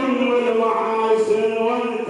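A man chanting a religious elegy, holding one long, slightly wavering sung note.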